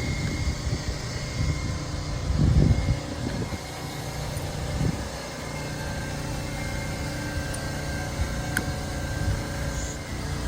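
Steady low mechanical hum, with a few low bumps about two and a half seconds in and faint clicks later on.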